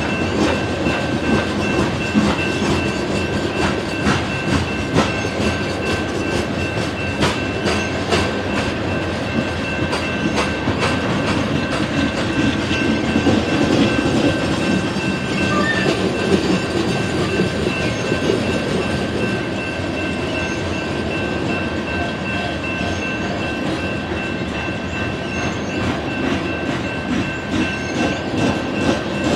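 BNSF coal train's hopper cars rolling past, their wheels clicking steadily over the rail joints, with a thin steady high whine from the wheels on the rails.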